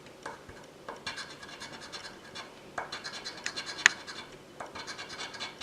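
Scratch-off lottery ticket being scratched: a run of short rasping strokes across the card, with one sharp tick a little before four seconds in.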